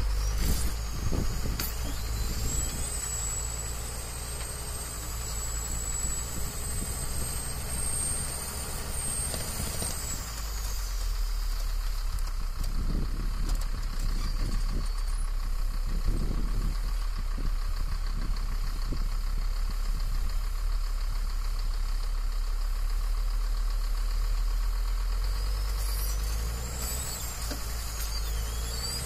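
A heavy vehicle's engine running steadily, with a thin high whine that climbs slightly and then falls away about ten seconds in, and comes back near the end.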